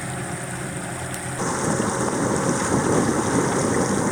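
Steady rushing noise with a low engine hum beneath it, growing louder about a second and a half in.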